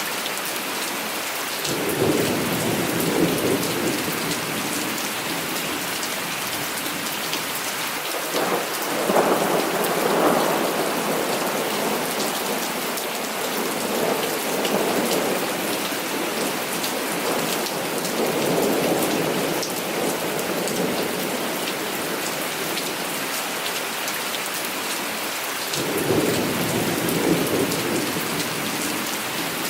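Heavy rain falling steadily, with several rolls of thunder coming and going over it: one about two seconds in, the loudest around a third of the way in, and more in the middle and near the end.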